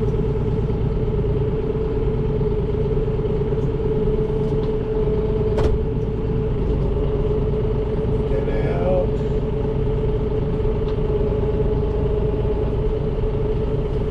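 Farm tractor engine running steadily at low speed, with a constant whine over the rumble.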